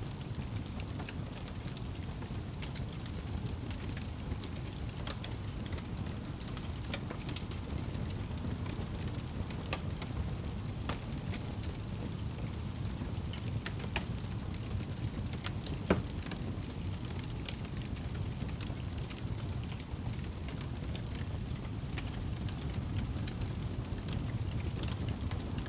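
Wood fire crackling with scattered sharp pops, one louder pop about two-thirds of the way through, over a steady rushing of rain.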